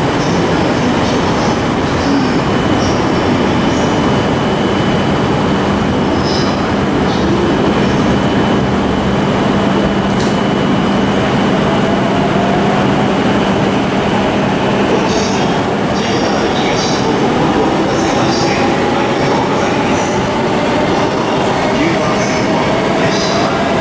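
JR electric commuter trains running past on the tracks, a loud steady rumble of wheels and running gear. In the later part a faint motor whine rises slowly in pitch as a train speeds up.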